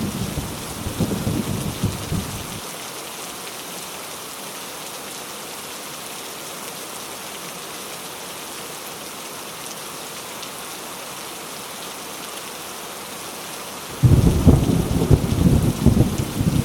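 Heavy rain falling steadily with thunder rumbling: a deep rumble at the start cuts off abruptly after about two and a half seconds, and a louder rumble starts suddenly near the end.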